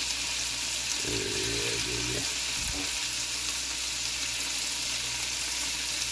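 Chicken hearts frying in oil in a cast iron pan over medium-high heat: a steady sizzle as they sear.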